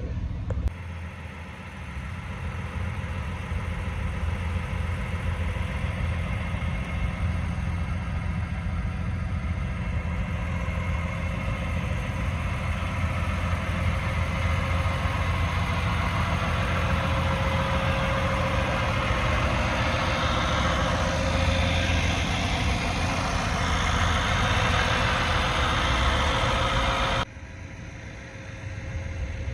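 Heavy truck's diesel engine idling with a steady low rumble, building somewhat louder through the middle and dropping abruptly near the end.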